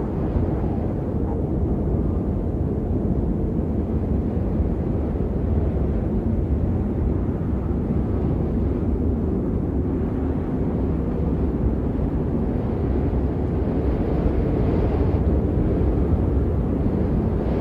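Strong wind rushing steadily, with a deep rumble from gusts buffeting the microphone.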